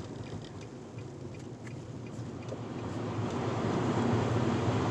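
Car driving, heard from inside the cabin: a steady rumble of road and engine noise that grows louder about halfway through as the car picks up speed.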